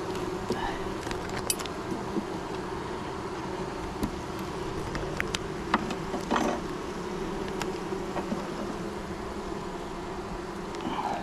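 Honeybee colony humming steadily in an open hive, with a few light clicks and one brief rustle about six seconds in. The colony is queenless, and the beekeepers take its loud hum for the sign of that.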